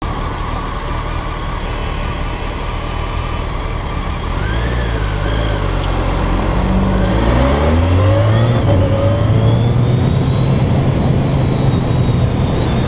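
BMW motorcycle engine running at low revs, then accelerating about six seconds in, its pitch rising before holding a steady higher note.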